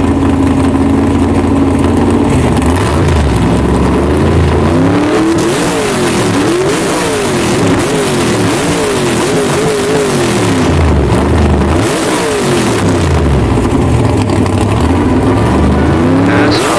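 A high-performance car engine idling steadily, then revved over and over, its pitch climbing and dropping with each blip.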